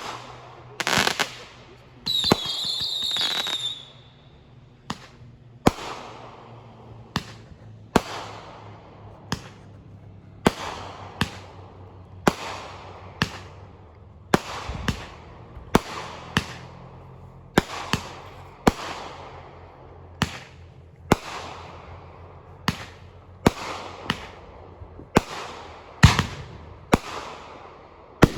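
Aerial fireworks going off in a steady barrage: sharp bangs about once a second, each trailing off in an echo. About two seconds in, a high firework whistle shrieks for roughly two seconds.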